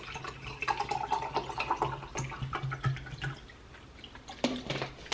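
A person drinking water from a plastic bottle: swallowing, with small clicks and crinkles as the bottle is handled.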